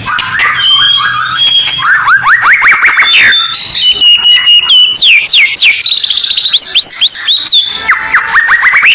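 Loud, densely packed songbird song from a recording: quick runs of falling sweeps, held whistled notes and fast rising slides following one another without pause. A masteran training track of provoking song meant to rouse white-rumped shamas (murai batu).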